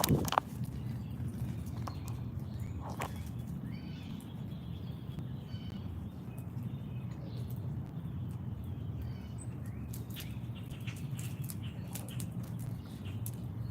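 Outdoor feeder ambience: a sharp knock right at the start, then scattered light clicks and taps with faint bird chirps over a steady low rumble.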